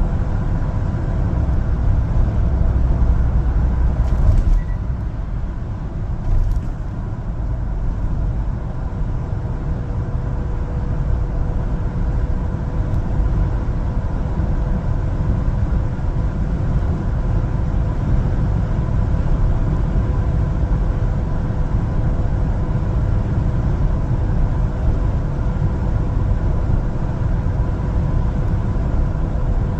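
1-ton LPG cargo truck driving, a steady low rumble of engine and road noise with a steady faint whine over it, and a couple of knocks about four and six seconds in.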